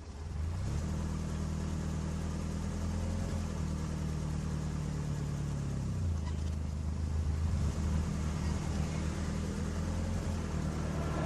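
A motor vehicle's engine running steadily, its pitch shifting shortly after the start and again about six seconds in.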